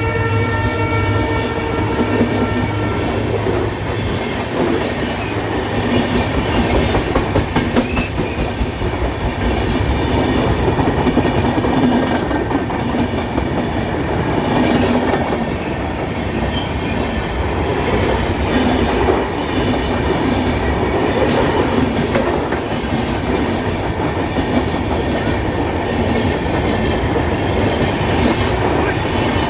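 Air horn of an Indian Railways EMD diesel locomotive holding one chord that stops about three seconds in, followed by the train rolling past with the clickety-clack of wheels over rail joints.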